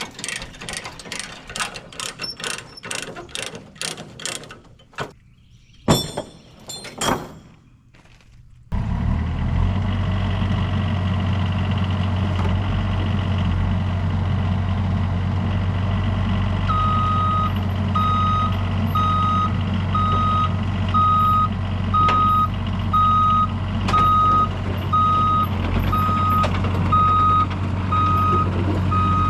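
Quick clicking and rattling, then about nine seconds in the diesel engine of a Cat excavator comes on and runs steadily. About seventeen seconds in its travel alarm starts beeping, roughly three beeps every two seconds, as the machine moves.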